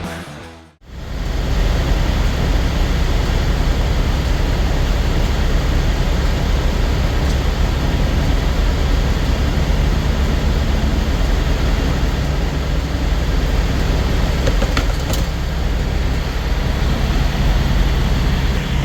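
Semi truck driving at road speed: steady engine drone and tyre and road noise with a low rumble.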